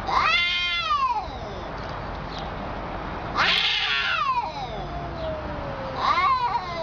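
A cat yowling three times in long, drawn-out meows, each rising and then falling in pitch, the middle one trailing off in a long downward glide.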